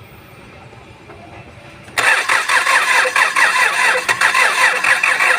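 Kia Sorento's D4CB four-cylinder common-rail diesel cranked on the starter, starting suddenly about two seconds in with a rhythmic turning-over sound. The engine is one that cranks but won't start, with injector balance fault codes (P0263, P0272).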